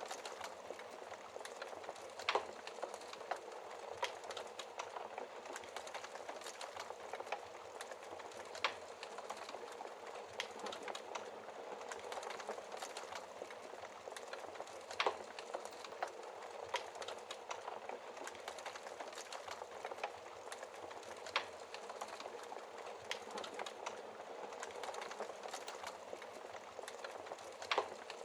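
Wood fire burning in a fireplace: a steady soft hiss of flames with constant small crackles and an occasional sharper pop from the logs, every few seconds.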